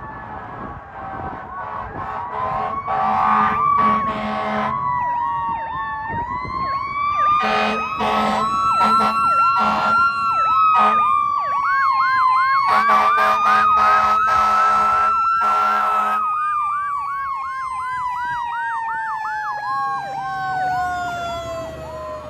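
Fire engine responding with its sirens going: a slow wail gliding up and down with a faster yelp over it, broken by three long air horn blasts. Near the end the wail slides steadily down in pitch.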